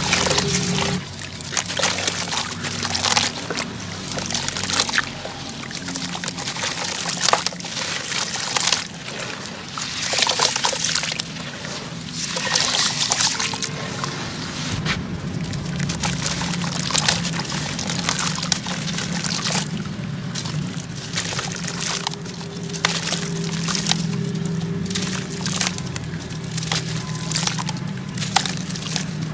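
Clumps of sand-cement crumbling and falling: a dense, continuous run of gritty crackling and trickling, broken by many small sharp cracks.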